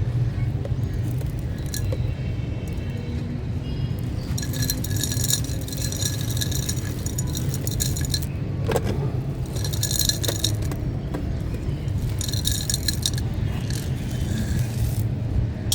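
A dry, stony chunk crumbling and crunching, in three spells of crackly gritty breakup about four, ten and twelve seconds in, with a sharp click in between, over a steady low rumble.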